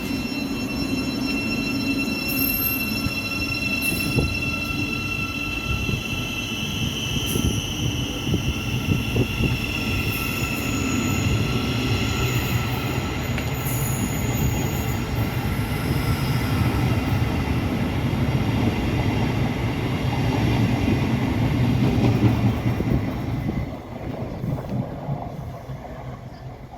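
Passenger train on the electrified line running past at the platform: a steady rail and wheel rumble with several high, squealing or whining tones over it. The tones fade in the second half, and the rumble drops away sharply near the end.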